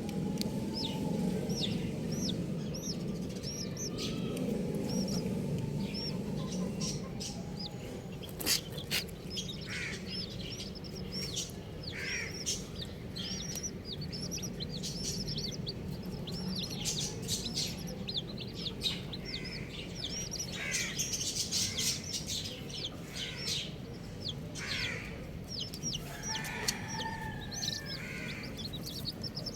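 Baby chicks peeping: many short high-pitched chirps, repeated and overlapping, with some lower clucking and a few sharp taps.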